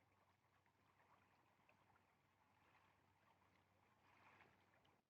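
Near silence: a very faint, even rustling hiss with a few tiny ticks, which drops away right at the end.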